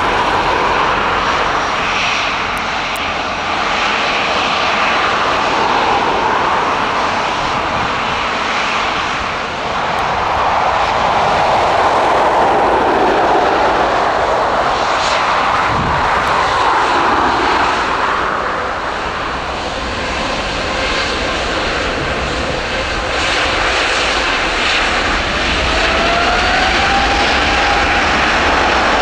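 Airbus A350-900's Rolls-Royce Trent XWB jet engines running loud and steady, with a whine that rises in pitch near the end.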